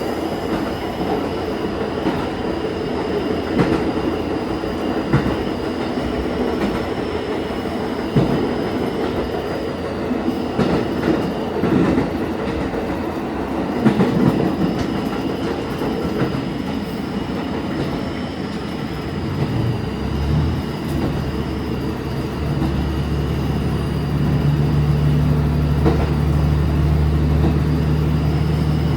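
Diesel railcar running on the line, its wheels clicking over rail joints with some faint squeal. About twenty seconds in, a steady low engine drone comes up and gets louder as the engine takes power.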